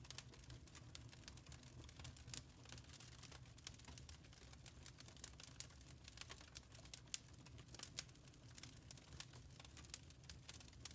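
Faint fireplace fire crackling: scattered small irregular pops and snaps over a steady low rumble.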